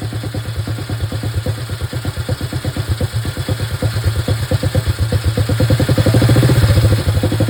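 Restored Crocker motorcycle engine running on a test run, with an even beat of firing pulses. Partway through, the revs rise gradually and the engine gets louder and quicker.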